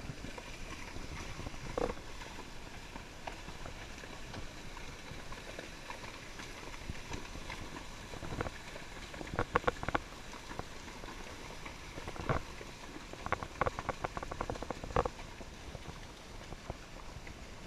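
Creek water running steadily, with a scattering of short knocks and taps about halfway through and later.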